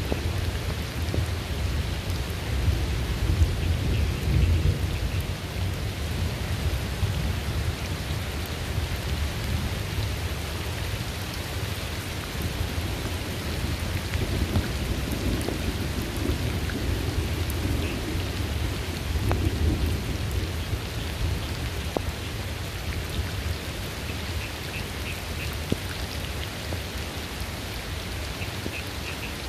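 Steady rain falling, with low rolling thunder that swells about three seconds in and again in the middle.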